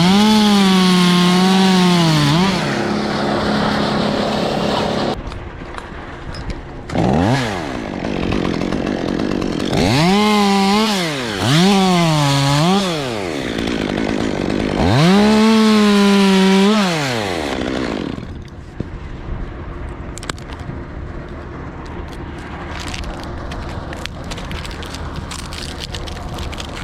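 Two-stroke chainsaw revved to full throttle about five times, each burst rising and then falling in pitch, dropping back to idle between bursts. After about 18 seconds it goes much quieter, with scattered light cracks near the end.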